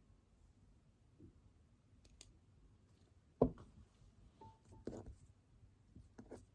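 Small knocks and clicks of things handled on a desk in a quiet room: one sharp knock about halfway through, then a few softer clicks.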